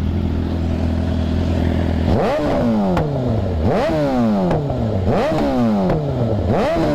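2006 Suzuki GSX-R 750's inline-four engine idling steadily, then revved hard four times about a second and a half apart, each rev rising sharply and falling back. It is loud as hell.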